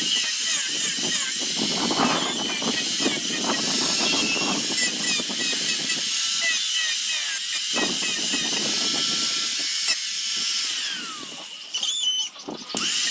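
High-speed rotary carving tool grinding into wood with a steady high whine, easing off and briefly stopping near the end.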